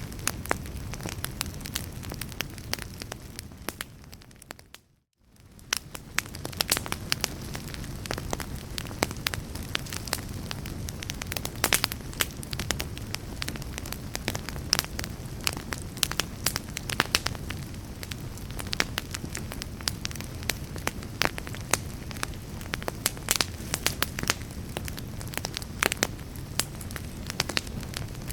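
Wood fire in a fireplace crackling steadily, with frequent sharp pops and snaps over a low rumble. About four seconds in, it fades out to near silence for a moment and then fades back in.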